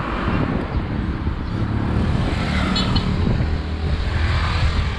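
Wind and road noise on an action camera carried on a moving bicycle: a steady rushing rumble, with a faint low hum for a moment past the middle.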